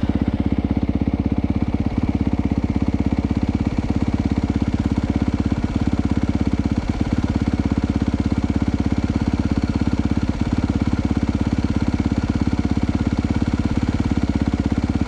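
2022 Honda CRF250R's single-cylinder four-stroke engine idling steadily, just restarted.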